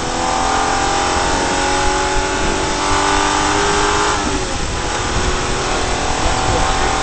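Rally car's engine pulling under acceleration, heard from inside the cabin: its pitch climbs slowly, drops suddenly about four seconds in, then climbs again, over steady road and wind noise.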